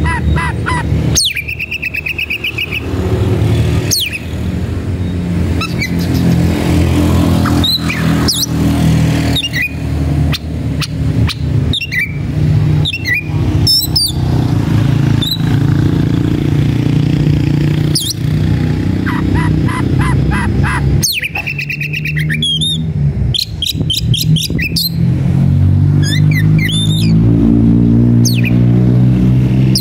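Oriental magpie-robin (kacer) singing a fast, varied song of sharp whistles, sweeping notes and rapid trills, the aggressive song of a bird challenging a rival. Under it runs a loud, low, droning hum whose pitch shifts, like a motor running.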